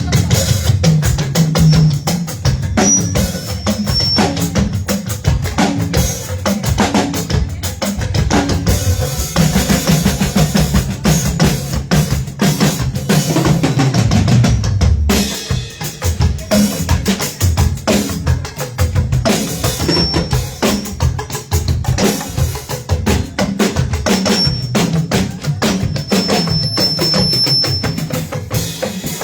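A drum kit played at a sound check, with rapid kick and snare hits over about half a minute of continuous playing and a strong low end underneath.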